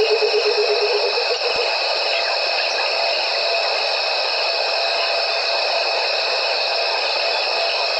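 Steady evening chorus of insects, a dense high trilling in several pitches at once. A short, rapid, lower pulsed call rides over it in the first second.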